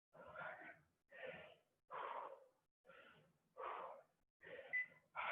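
Heavy, even breathing of a person out of breath from hard exercise, faint, about one breath every 0.8 seconds.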